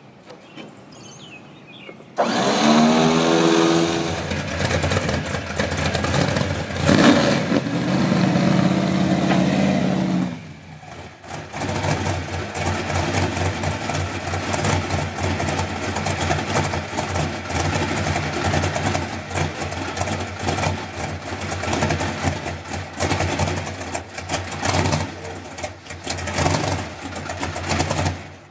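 Car engine started about two seconds in and revved, then running and pulling under throttle as the car is driven up onto a ramp truck's bed, with a brief drop about ten seconds in. It shuts off suddenly at the end.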